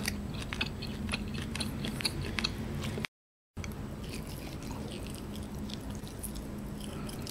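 Close-up chewing of a slice of A5 wagyu beef, cooked to tough, with many small wet mouth clicks. The sound drops to dead silence for about half a second just after three seconds in.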